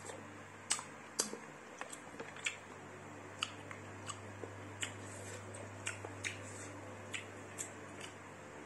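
Close-up mouth sounds of a person chewing black apple snail meat: sharp, irregular wet clicks and smacks, about one or two a second, over a steady low hum.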